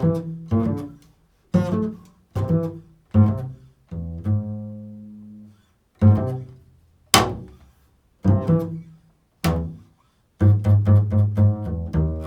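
Low-pitched plucked string instrument played slowly and improvised: single notes about a second apart, each struck and left to fade, one ringing for about two seconds, then a quick run of repeated notes near the end.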